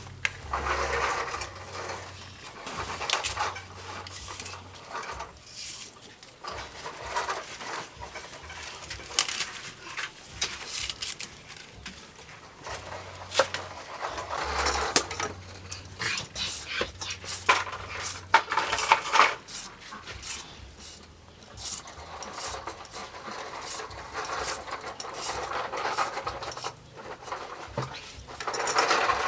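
Kitchen clatter: many short clicks and knocks of utensils against dishes and pots while food is handled, in uneven bursts.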